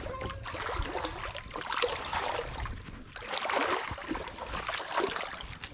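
Footsteps wading and sloshing through shallow marsh water, an uneven run of splashes and swishes.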